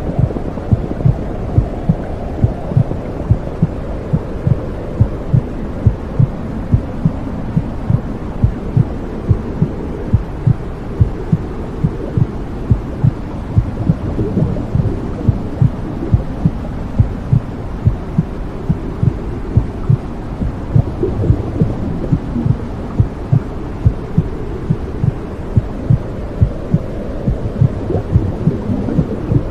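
Womb sound for soothing a baby: a steady low whooshing with a mother's heartbeat thumping through it at an even pace.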